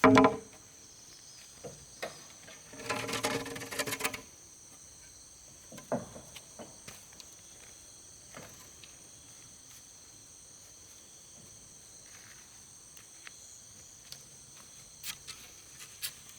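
Steady high-pitched chirring of insects such as crickets, with a few scattered knocks and a louder burst about three seconds in.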